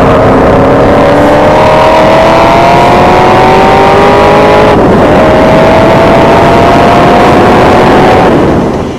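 Ford GT's supercharged V8 under hard acceleration, its pitch climbing steadily. About halfway through it upshifts, drops in pitch and climbs again, then dies away near the end.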